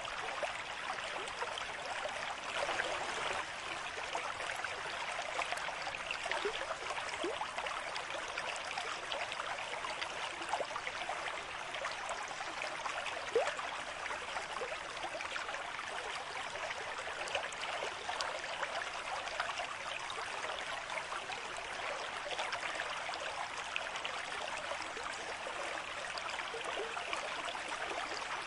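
Stream water running steadily over stones, with many small bubbling plinks.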